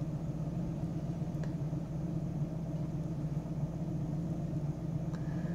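Ford Focus engine idling, a steady low hum heard from inside the car's cabin.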